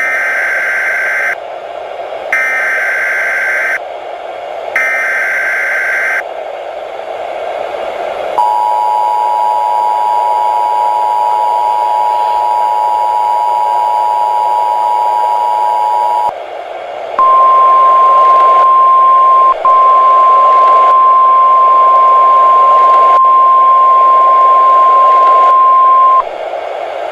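NOAA Weather Radio Emergency Alert System activation for a tornado warning. Three short bursts of the SAME digital header screech come first, then the two-note EAS attention tone held for about eight seconds. Last comes the single-pitch weather radio warning alarm tone for about nine seconds with a tiny break near its start, all over steady radio static hiss.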